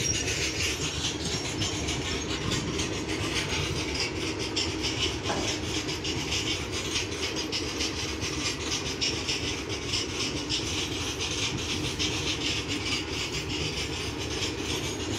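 A passing train: a steady rumble with a fast, even rattle of wheels on track, holding at one level throughout.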